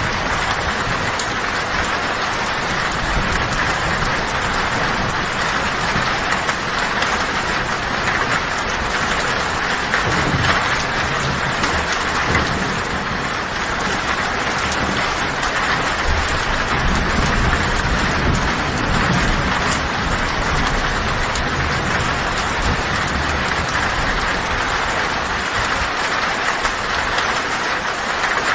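Heavy rain falling steadily on a tin roof, with low rumbles of thunder; the longest rumble comes a little past halfway.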